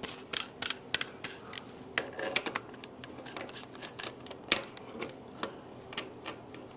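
Irregular clinks and taps of metal parts and tools being handled and fitted into place, about two or three sharp clicks a second, with one louder knock about halfway through.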